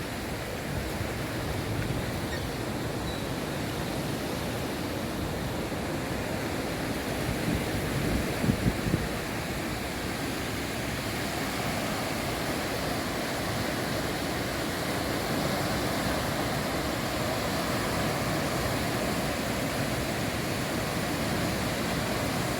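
Steady wash of North Atlantic surf on the shore, with a few brief gusts of wind buffeting the microphone about eight seconds in.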